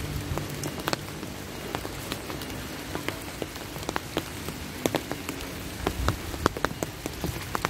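Steady rain falling, with many large drops striking an umbrella close overhead in sharp, irregular ticks.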